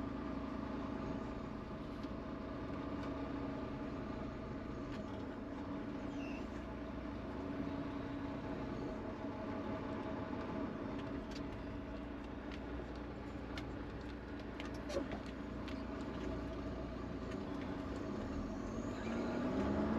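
Semi-truck's diesel engine running steadily, heard from inside the cab, with a few faint clicks.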